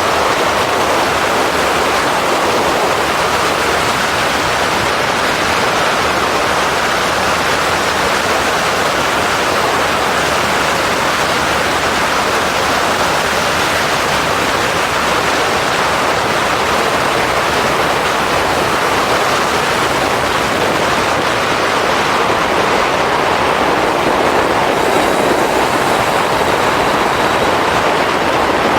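Steady rush of wind on the microphone of a motorcycle-mounted camera while riding, mixed with the bike's engine and road noise.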